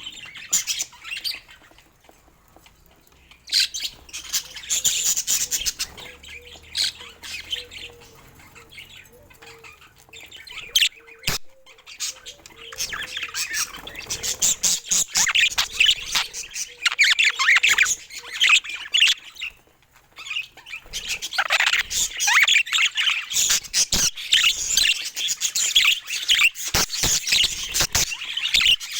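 Budgies chattering and warbling in fast streams of chirps, squawks and clicks, coming in bursts with a short lull about two seconds in and another near the twenty-second mark.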